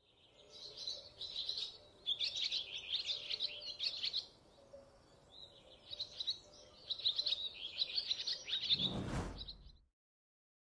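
Small birds chirping and twittering in two long bouts of quick, high calls. Just before the end, a brief noise across all pitches, and then the sound cuts off suddenly.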